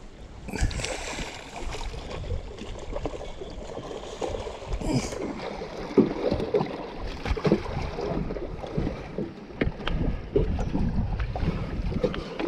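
Irregular knocks and bumps on a small boat with bursts of water splashing, as a hooked fish is brought alongside and handled, over wind on the microphone.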